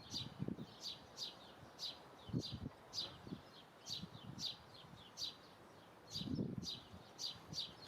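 A bird calling over and over with short, high chirps that fall in pitch, about two a second. A few low, muffled rumbles come in under it.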